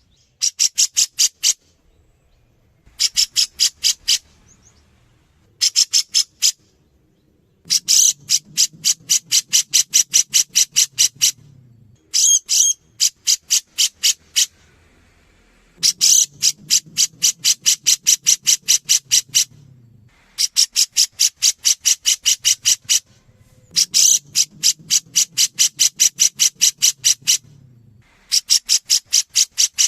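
Cucak jenggot (grey-cheeked bulbul) calling in bouts of rapid, evenly repeated high-pitched notes, about nine a second, each bout lasting one to four seconds with short pauses between.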